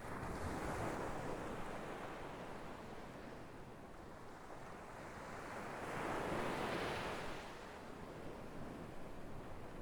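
Sea waves breaking and washing on a shore, two swells of surf about six seconds apart, the second one louder.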